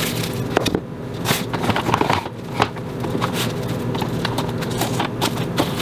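Irregular crinkles and clicks of plastic wrap and food containers being handled, over a steady low hum.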